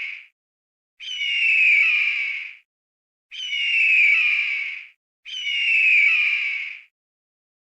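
A bird giving a harsh, squawking call over and over, each call about a second and a half long and falling slightly in pitch. Three full calls come at even intervals, after the tail of one at the start.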